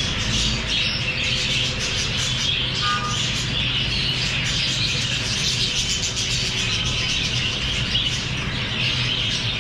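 A flock of lovebirds chattering and squawking continuously, many short overlapping calls, over a steady low hum.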